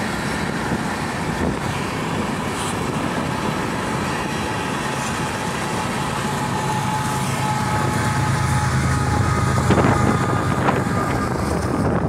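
Freight cars rolling past on the rails, then the rear-end BNSF diesel locomotive, a distributed power unit, going by. Its engine hum grows louder in the second half, with a faint steady whine and two sharp knocks near the end.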